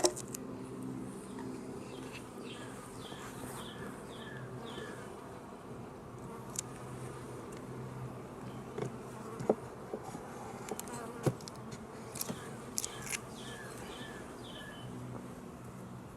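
Honey bees buzzing in a steady, droning hum around an open hive, with a few sharp clicks and knocks in the second half.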